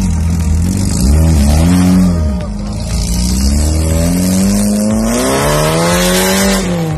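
Lada Niva off-road racing car's engine revving hard: two short blips about a second in, then a long climb in revs that peaks near the end and drops away.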